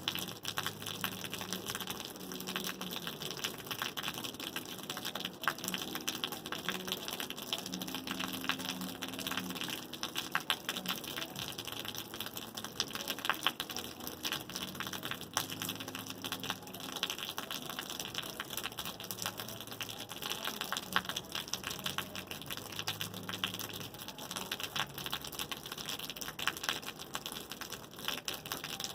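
Rain falling steadily: a dense hiss made of many small drop ticks.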